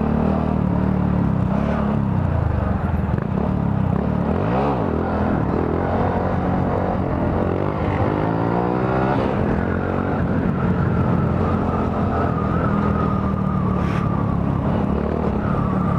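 Honda Grom's 125 cc single-cylinder engine running steadily under way, its pitch dipping and climbing again about four seconds in as the revs change.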